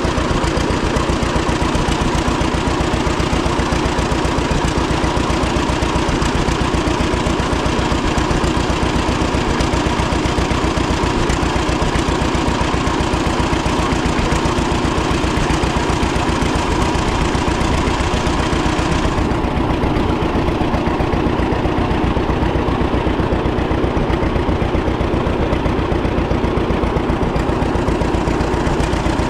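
1936 John Deere Model A's two-cylinder engine running steadily on its own after a hand cold start, with an even, fast beat of firing pulses. The sound turns duller about two-thirds of the way through.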